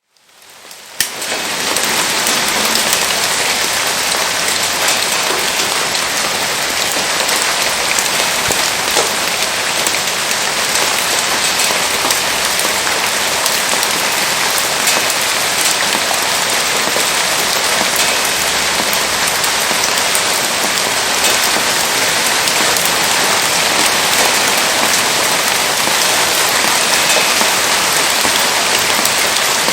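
Heavy rain falling steadily, a dense hiss of drops with fine ticks scattered through it. It fades in over the first second, with one sharp click about a second in.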